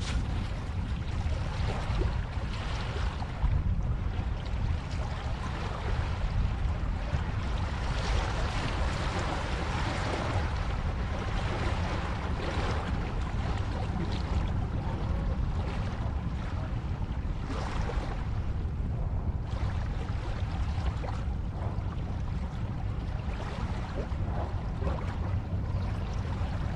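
Ocean waves washing in and out over a steady low rumble, swelling and falling back every few seconds.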